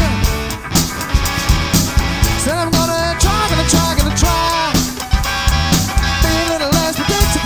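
Rock band recording with drum kit and guitar, in a passage between sung lines, with bending melodic lines over the beat.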